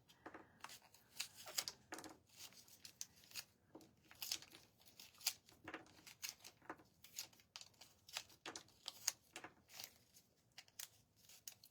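Faint, rapid crackling and ticking as dried craft beads are peeled one after another off their backing sheet.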